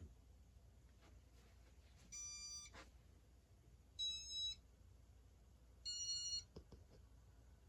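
Casablanca Saturn ceiling fan's electronic control beeping three times, about two seconds apart, each short beep at a different pitch, as the fan is run in its demo mode.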